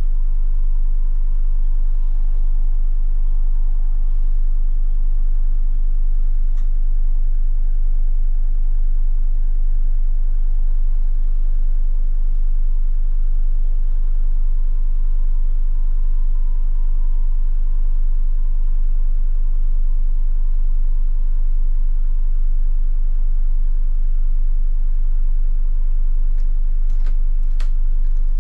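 Scania K250IB bus engine running steadily, a deep constant rumble with no revving, with a few faint clicks near the end.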